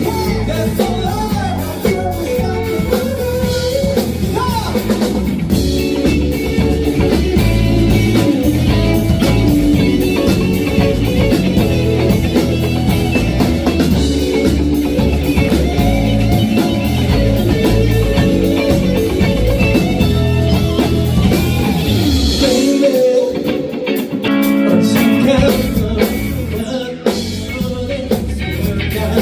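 A band playing a rock song with singing, guitar, bass and drum kit; about 23 seconds in, the bass and drums briefly drop out, then the full band comes back in.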